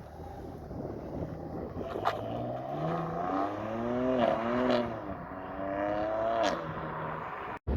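A car's engine accelerating away, revs climbing with a couple of brief dips, then holding steadier, with a few sharp clicks over it.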